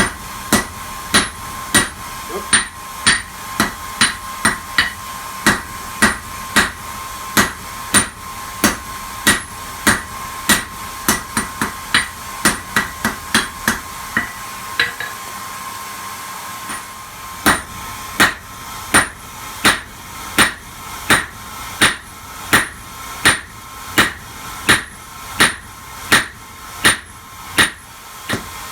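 Hand forging: a hammer striking metal on an anvil in a steady rhythm of about one and a half blows a second, with the anvil ringing through the first half. The blows stop for about three seconds midway, then resume.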